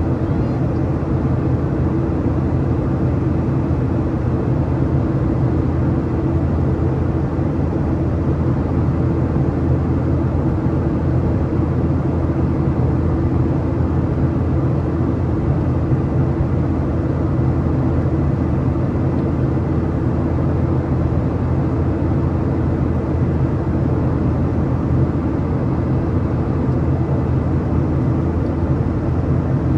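Boeing 737-800 cabin noise: the CFM56-7B jet engines and airflow making a steady, loud drone with a low hum, heard from a seat over the wing.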